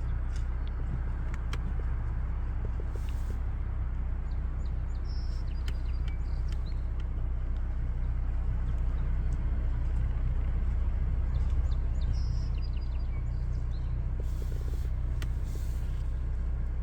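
A steady low engine hum, like an idling vehicle, with a few faint high chirps about five and twelve seconds in.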